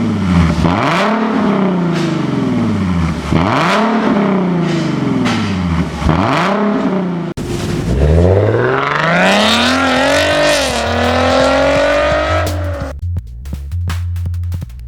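Nissan 370Z's 3.7-litre V6 revving through a Tunist dual variable exhaust: three quick revs that rise and fall, then a longer rev that climbs higher and holds before dropping off. Electronic music with a beat takes over near the end.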